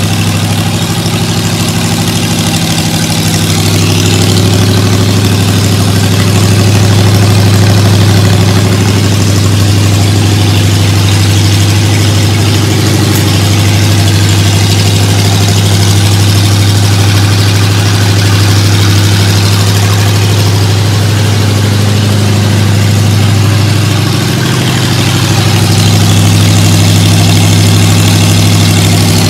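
Rebuilt Ford flathead V8 running steadily at idle on an engine stand, on its first run after a bare-minimum rebuild.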